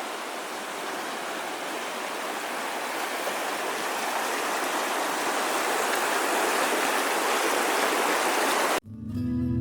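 Steady rushing of a stream, growing gradually louder, then cut off abruptly near the end by strummed acoustic guitar music.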